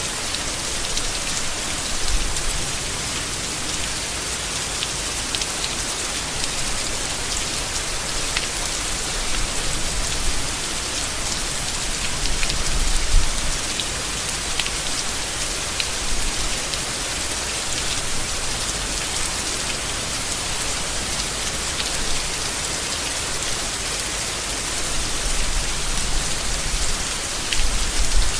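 Steady rain falling on leaves, an even hiss with scattered sharp drop ticks and a few brief low swells.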